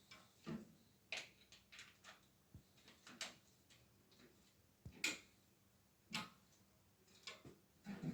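Quiet, irregular light clicks and knocks, a dozen or so scattered unevenly, the loudest about five seconds in.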